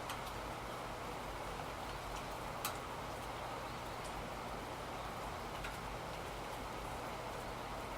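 Steady rain falling, an even hiss, with a few sharp single taps scattered through it, the loudest a little before three seconds in.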